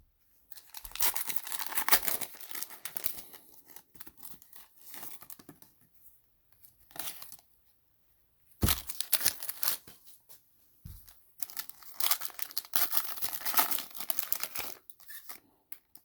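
Trading-card packs being torn open and their wrappers crinkling, in several bursts of tearing and rustling separated by short pauses.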